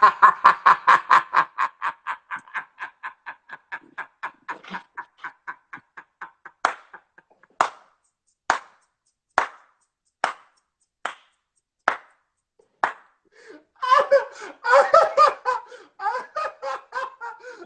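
Hard, helpless laughter in fast even 'ha-ha' pulses that fade over about five seconds into short sharp bursts about a second apart, then builds back into fuller laughter near the end.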